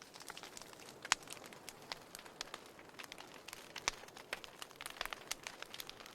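Wood fire crackling in a fireplace: a steady faint hiss with irregular snaps and pops, the sharpest about a second in and just before four seconds.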